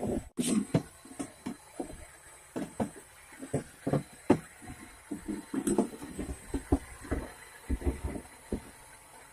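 Irregular knocks, bumps and rustling from things being handled inside a car's cabin during cleaning, over a faint steady high hiss.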